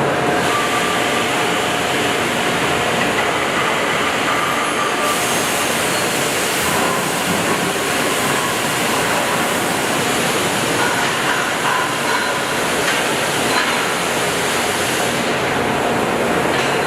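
Steady mechanical noise of engine-plant machinery, a dense rumble with hiss and faint whining tones. Its high hiss changes about five seconds in and again near the end.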